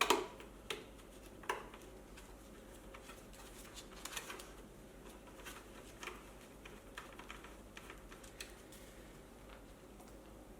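Sharp clicks and light clinks of small metal parts and tools being handled, three louder ones in the first second and a half, then scattered softer clicks and rustles.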